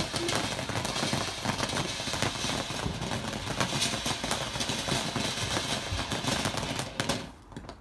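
Firework crackling: a dense, rapid stream of small sharp pops that cuts off suddenly about seven seconds in.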